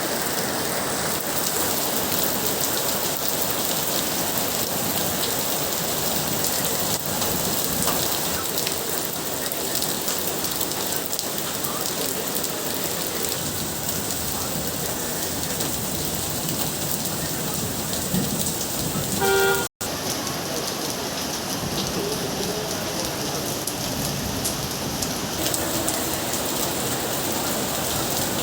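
Steady, heavy rain falling and splashing on surfaces. About nineteen seconds in there is a short tooting tone, and a moment later the sound cuts out for an instant.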